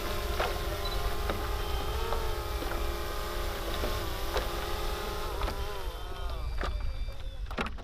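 Small quadcopter drone flying close by, its propellers giving a steady whine whose pitch bends slightly and then wavers and drops near the end.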